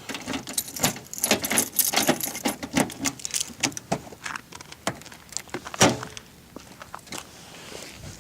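A bunch of car keys jangling and clinking in irregular bursts, with one louder thump a little before six seconds in.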